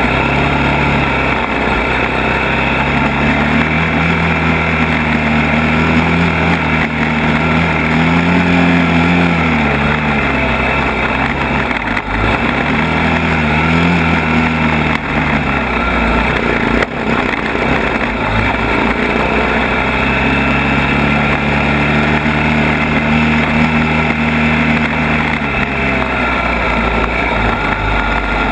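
All-terrain vehicle (quad) engine running continuously under changing throttle on a rough trail. Its pitch rises and falls several times as the rider speeds up and eases off.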